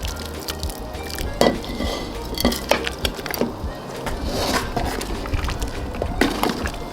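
Dishes and metal utensils clinking and knocking, several separate strikes at irregular intervals.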